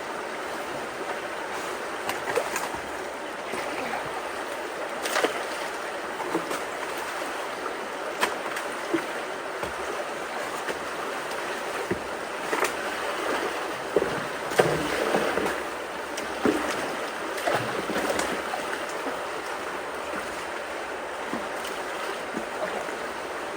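Flowing creek water rushing steadily, with scattered splashes and knocks that are loudest through the middle of the stretch.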